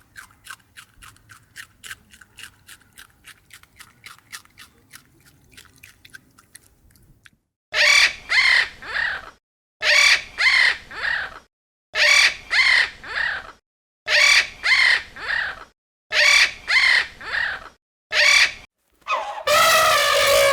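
Crow cawing in sets of three harsh caws, repeated about every two seconds, ending in a longer call. Before the caws, for the first seven seconds or so, there is a quiet run of rapid ticking clicks, about five a second.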